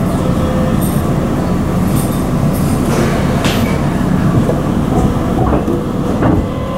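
Keisei 3700 series electric train running along the track, heard from inside the car: a steady low rumble of wheels on rail, with a few sharp clicks about halfway through and near the end.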